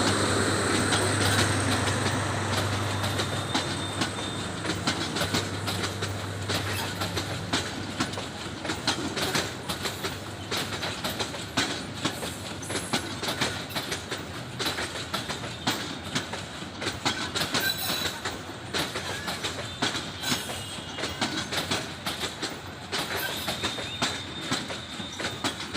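Meter-gauge passenger train rolling through the station, its wheels clicking rapidly over the rail joints. Loudest in the first few seconds, then running on more steadily.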